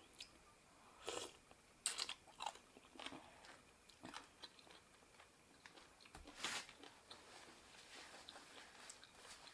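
A person chewing and eating food close to the microphone: a handful of short, sudden crunching and mouth sounds, most of them in the first seven seconds, fainter near the end.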